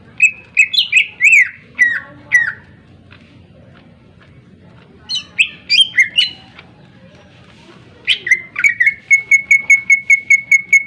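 Cucak ijo (green leafbird) singing loud, sharp phrases of quick slurred whistled notes, twice with a pause between. Near the end comes a fast run of the same short note repeated about five times a second.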